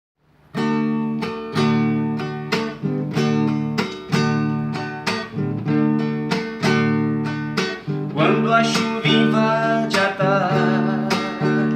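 Acoustic guitar intro to a ballad: chords plucked in a steady, unhurried rhythm, starting about half a second in. A higher melody line with vibrato joins about eight seconds in.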